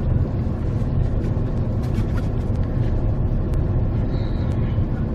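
Steady road noise inside a moving vehicle: a low engine and tyre rumble with a few faint clicks and rattles.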